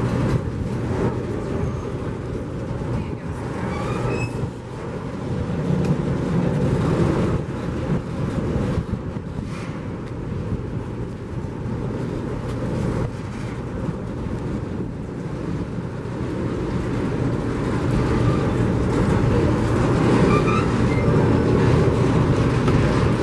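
Train running by: a continuous low rumble with a steady engine hum, growing louder over the last several seconds.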